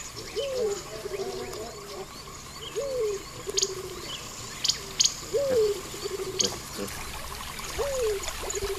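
Wild nature ambience: a low animal call repeats about every two and a half seconds, each a rising-then-falling note followed by a short level trill. Behind it runs a steady high insect-like chorus with scattered clicks.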